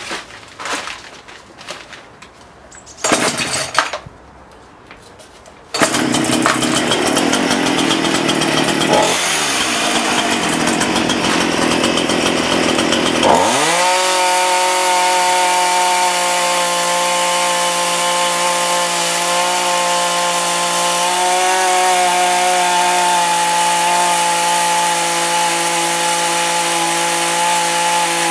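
A few knocks, then a chainsaw engine starts about six seconds in and runs. About thirteen seconds in it goes up to a steady high pitch at full throttle as it saws into a lead keel.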